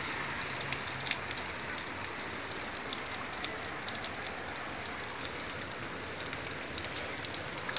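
Steady heavy rain falling, a constant hiss with a dense patter of individual drops hitting nearby surfaces.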